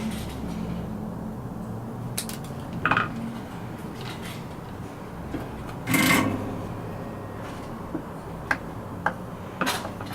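Workbench handling noise: about six separate metallic clinks and knocks as tools and small parts are picked up and set down, the loudest about six seconds in, over a low steady hum.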